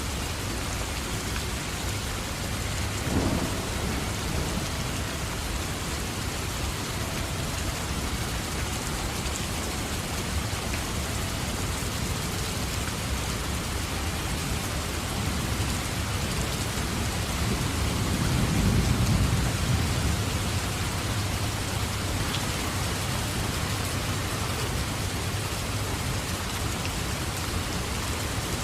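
Steady rain with thunder: a short crack of thunder about three seconds in, then a low rumble of thunder that builds and fades about two-thirds of the way through.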